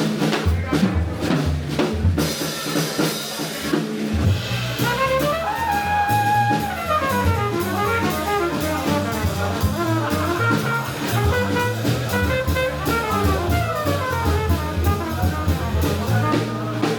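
Live jazz band playing, with a drum kit keeping time on cymbals and drums. From about four seconds in, a lead instrument plays fast runs that climb and fall.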